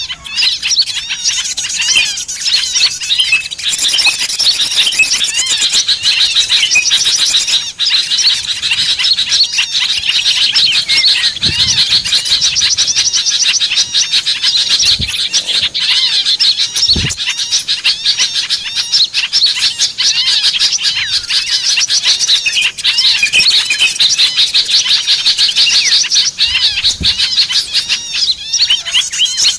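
A dense, noisy chorus of many small songbirds chirping and trilling rapidly and without pause. This is a bird-lure mix meant to draw small wild birds in.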